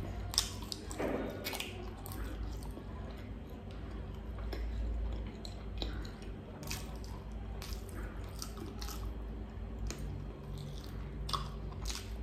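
Close-up chewing and mouth sounds of a man eating saucy roast beggar's chicken: wet, squishy chewing with scattered short clicks and smacks as he gnaws meat off the bones held in his fingers.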